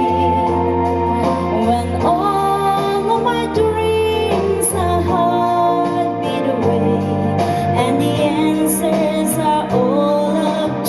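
A woman singing a slow ballad over a backing of sustained chords and a steady bass line.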